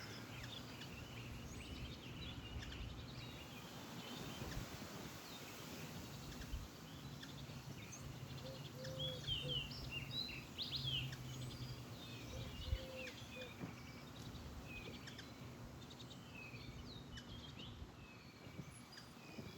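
Small birds chirping and twittering outdoors: many short, quick calls keep coming, busiest in the middle stretch, over a faint low hum.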